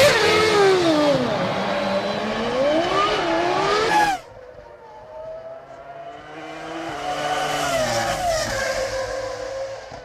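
Several Formula One cars' 3-litre V10 engines at high revs, their pitches climbing and dropping with gear changes. The sound cuts off abruptly about four seconds in, then more cars rise and fall in pitch as they go by.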